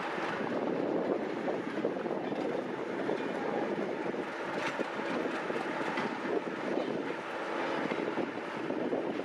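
A train running on the rails: a steady rumble of wheel and running noise with faint humming tones in it, holding at much the same level throughout.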